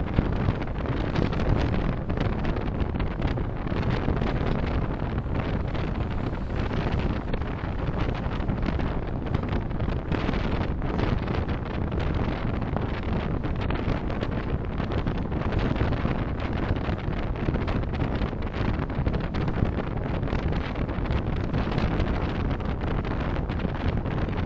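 Steady rumble of a car driving along: road and tyre noise with engine hum, unchanging throughout.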